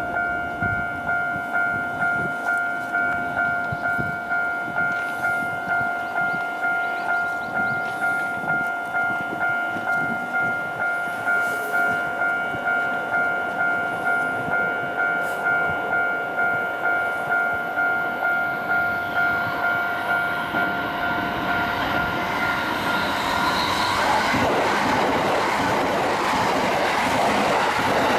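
Japanese railway level-crossing alarm ringing its two-tone electronic chime steadily, about one and a half beats a second, as a commuter electric multiple-unit train approaches. The train's running noise builds after about twenty seconds and, from about twenty-four seconds in, the train passes close by and drowns out the alarm.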